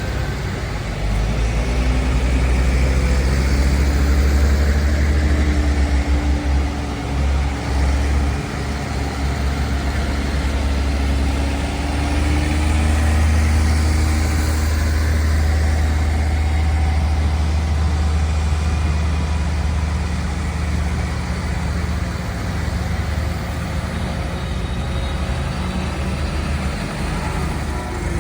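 Tractor diesel engines running, a heavy low rumble that swells and eases, loudest about four seconds in and again around fourteen seconds in.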